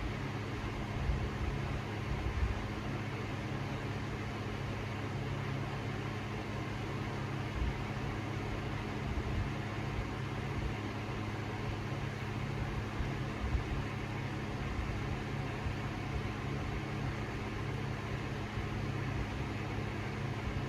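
Harbor Breeze Cheshire 52-inch ceiling fan running steadily on high speed: a steady motor hum under the rush of air from the blades.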